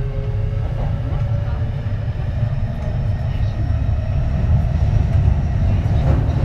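Kintetsu 3220-series electric train running: a steady low rumble of wheels on track, with a faint whine from its Hitachi IGBT inverter-driven traction motors slowly rising in pitch as the train accelerates.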